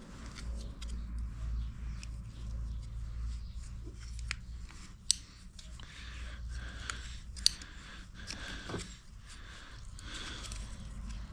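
Pipe elbow fitting being screwed on by hand and with tools: scraping of metal threads and small clicks of metal parts, with two sharp clicks about five and seven and a half seconds in, over a low steady hum.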